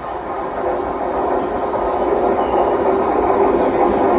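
A train moving along the platform, its running noise growing steadily louder, with a faint steady hum under it.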